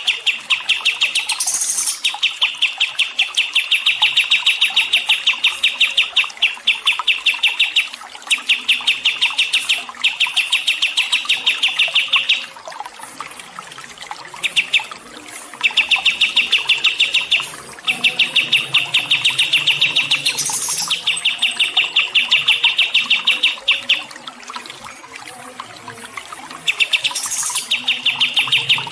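A small songbird giving long runs of rapid, evenly repeated chirps, each run lasting several seconds with short pauses between, and three brief higher-pitched calls mixed in.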